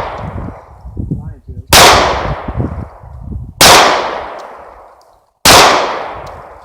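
Taurus PT-111 G2 9mm pistol fired three times, about two seconds apart, each shot followed by a long fading echo.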